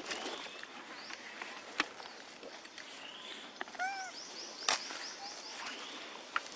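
Outdoor birdsong: scattered short chirps, with a fast run of repeated high notes near the middle. A short squeaky call comes just before it, and there are two sharp clicks.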